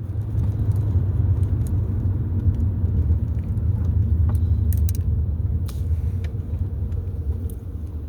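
Car cabin noise while driving: a steady low rumble of road and engine, with a few faint clicks and rattles.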